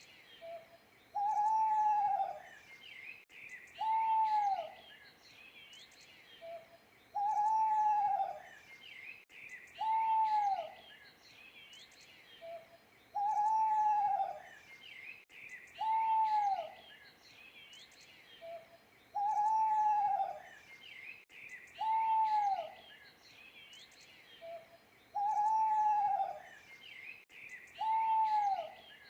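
Owl hooting in a repeating phrase about every six seconds: a brief note, a long hoot, then a shorter one, each hoot rising and falling in pitch. Small birds chirp faintly behind it.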